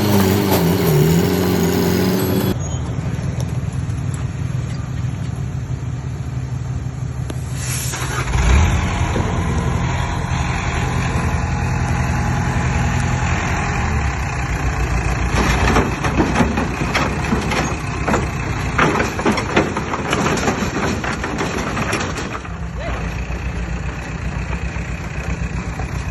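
Heavy diesel earthmoving machines running steadily, with a short hiss about eight seconds in and a spell of knocks and clatter later on. A brief, different pitched sound opens, cut off abruptly about two seconds in.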